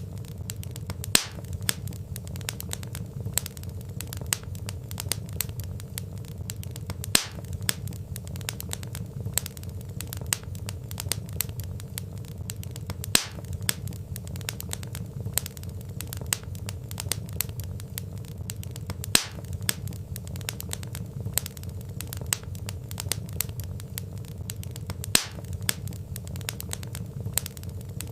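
Burning wood logs crackling, with dense small snaps over a low steady rumble and a louder pop about every six seconds.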